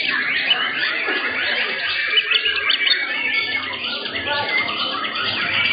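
Many white-rumped shamas (murai batu) singing at once in contest cages: a dense, overlapping chorus of quick chirps, trills and whistles.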